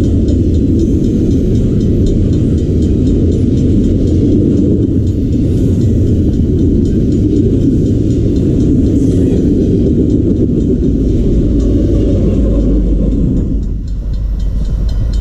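Intermodal freight train rolling past: a loud, steady rumble of steel wheels on rail, with faint ticks, that thins out near the end.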